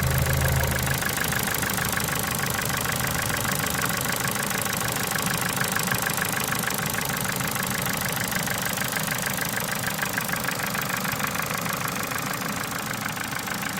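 Ford Mondeo Mk4 1.6-litre petrol engine idling with a fast, even ticking that makes it sound like a diesel; the owner suspects the valves or valve tappet buckets.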